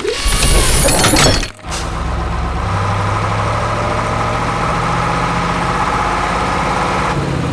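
A loud crash fills about the first second and a half and stops abruptly. Then a heavy diesel engine of quarry machinery runs steadily with a low hum.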